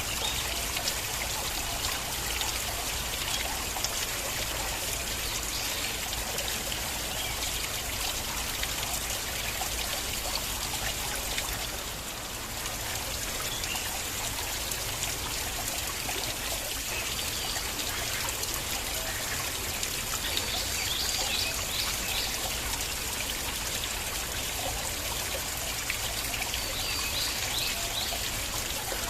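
Flowing stream water trickling and splashing steadily, with a brief slight dip in level about twelve seconds in.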